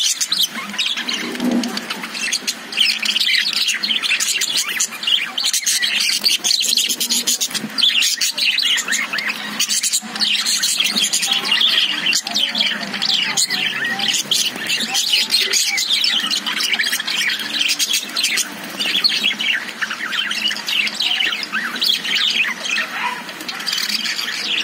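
Several caged budgerigars chirping and chattering continuously, with many short, overlapping high chirps and squawks.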